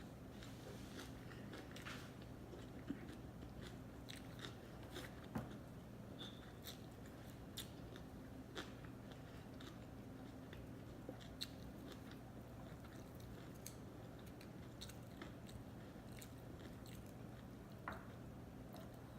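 Chewing sushi: soft, scattered clicks and wet smacks of the mouth, over a faint steady low hum.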